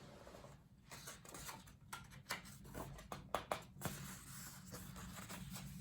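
Quiet paper rustling with a few short, sharp clicks, bunched from about two to four seconds in: the pages of a hardcover picture book being handled and turned.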